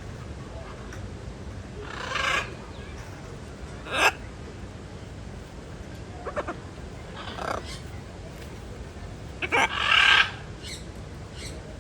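Birds calling: short, loud calls come at irregular intervals, about five in all, and the loudest cluster is near the end.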